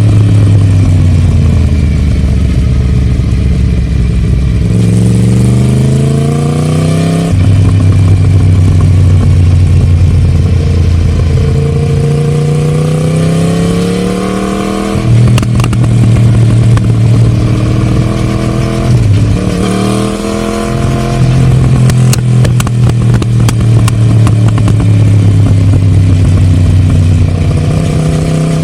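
Yamaha MT-10's crossplane inline-four running through a Scorpion de-cat pipe and stock silencer under acceleration. The revs climb and fall back sharply at two gear changes, then hold fairly steady, with a brief dip about two-thirds of the way through.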